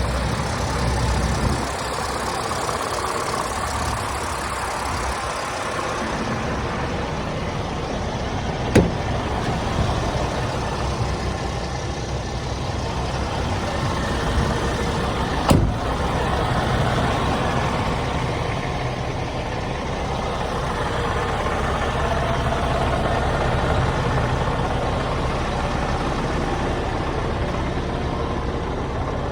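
Scania diesel engine running steadily, with two sharp clicks about seven seconds apart.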